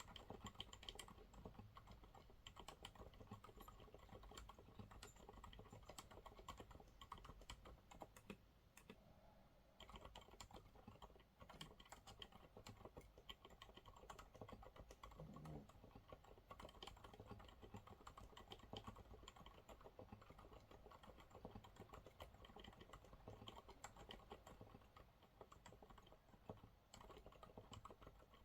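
Faint, continuous typing on a Monsgeek MG108W keyboard with TTC silent brown switches: soft, muted keystrokes in an irregular stream, with a short pause about nine seconds in.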